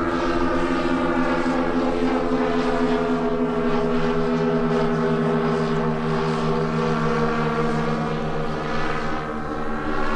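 Quarter-scale twin-engine Beech-18 model airplane in flight, its engines and propellers running with a steady drone. The pitch sags slightly through the middle and rises again near the end.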